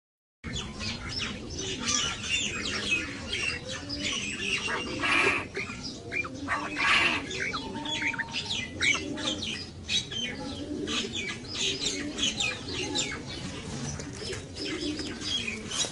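A dense chorus of many birds: rapid high chirps over repeated low cooing calls, like doves. It starts abruptly about half a second in.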